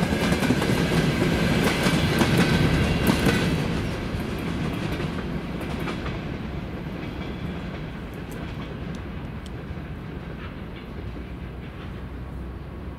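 Freight train's open gondola wagons rolling past, their wheels clattering on the rails. Loud for the first three or four seconds, then fading steadily as the tail of the train draws away.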